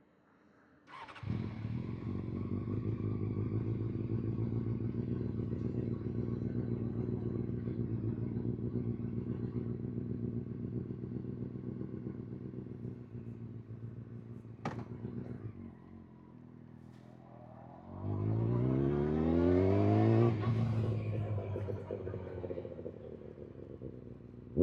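Honda CBR600 inline-four motorcycle engine starting about a second in and idling steadily. About 18 seconds in it is revved once, the pitch rising for about two seconds before dropping back to idle.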